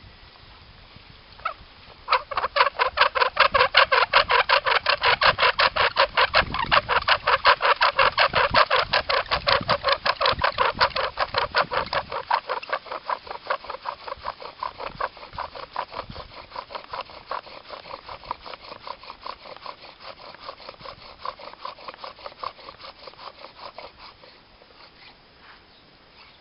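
Bow drill fire-making: a wooden spindle grinds and squeaks in the hearth board as the bow is sawn rapidly back and forth, several strokes a second. It is loudest at first, eases off about halfway, and stops a couple of seconds before the end.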